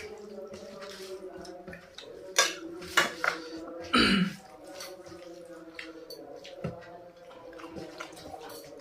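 Eating sounds: a few sharp clinks of a plate or bowl about two and a half to three seconds in, among wet chewing and mouth sounds, with a louder mouth sound about four seconds in.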